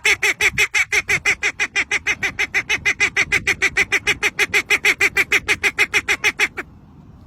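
A bird calling a rapid, even string of short honking notes, about seven a second, which stops about six and a half seconds in.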